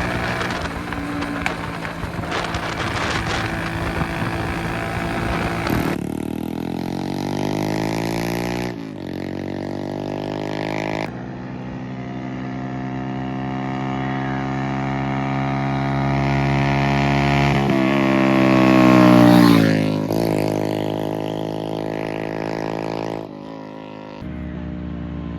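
Old-model Hero Passion Plus motorcycle's small single-cylinder four-stroke engine being ridden through the gears. The engine note climbs and breaks off twice, then rises for a long stretch to its loudest point before its pitch drops quickly, and it settles lower near the end.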